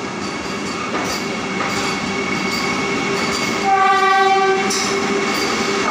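Vande Bharat Express train running along the platform as it pulls in, a steady rolling rumble with light regular clicks. About halfway through, a train horn sounds once for about a second.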